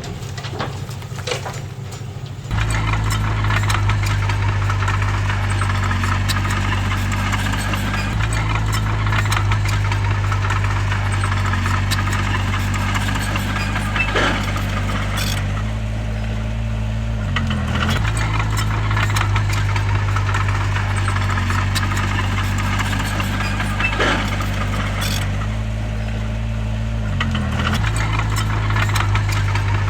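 Heavy diesel engine of a bulldozer running steadily, with metallic rattling and clatter over it. The sound gets louder about two and a half seconds in, and the engine note dips briefly twice, once past the middle and once near the end.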